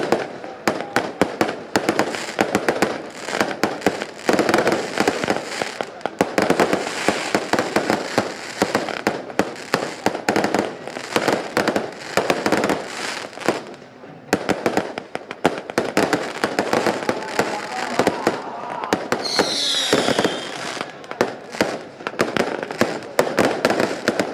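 A long string of firecrackers going off in dense, irregular cracks. Near the end comes a short falling whistle.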